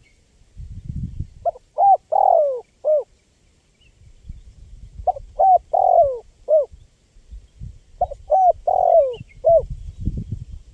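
Spotted dove (tekukur) cooing: three phrases of about four notes each, the third note of each phrase the longest and falling in pitch. A low rumbling noise runs underneath, strongest about a second in and near the end.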